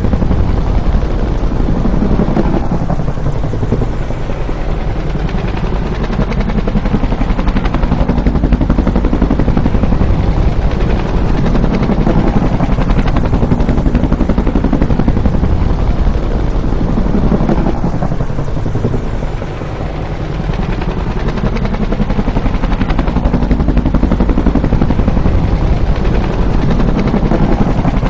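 Bell UH-1 Huey helicopter, its rotor thumping in a fast, steady beat with engine noise underneath. The sound swells and sweeps in pitch every few seconds as if passing by, dipping briefly about two-thirds of the way through.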